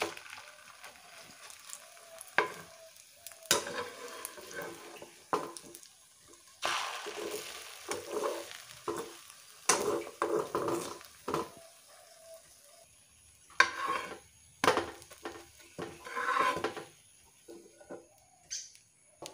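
Egg-soaked bread slices sizzling as they fry in oil in a pan, with a wooden spatula scraping and tapping against the pan as they are turned over and moved.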